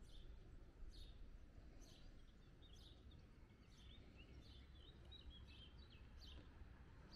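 Faint birdsong: a small bird repeating short, high chirps about once a second, with a quick run of notes in the middle, over a faint low outdoor rumble.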